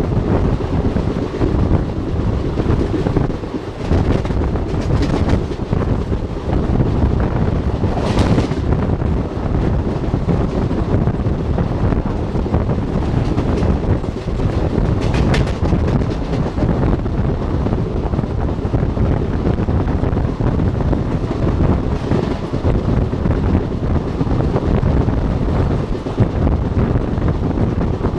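Wind buffeting the microphone over the steady running noise of a moving passenger train. Two brief, sharper rattles come through, about eight and fifteen seconds in.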